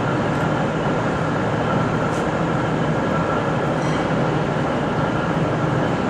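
V/Line VLocity diesel multiple unit running steadily, a constant diesel hum with a thin steady whine above it.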